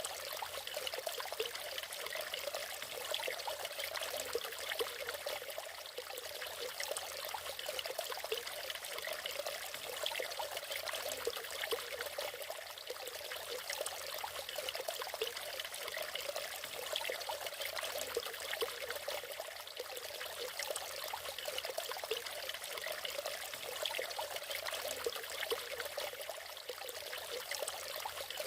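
Natural waterfall: water splashing and trickling in a steady, unbroken stream.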